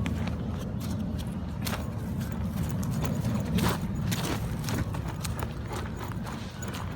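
Irregular crunching footsteps and snapping on a forest floor, over a steady low rumble of wind and handling noise on the microphone.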